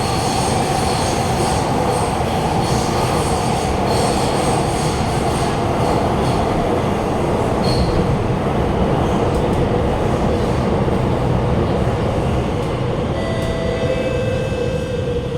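Cabin interior of an Alstom Movia R151 metro train running through a tunnel: steady rumble and wheel-on-rail noise with a whine that slowly falls in pitch as the train slows on its approach to the station. Near the end a few steady electric tones from the traction equipment come in as it brakes.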